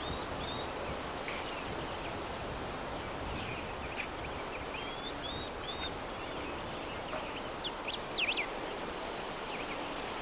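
Steady soft breeze hiss with scattered short, high bird chirps; a louder pair of sweeping chirps comes about eight seconds in.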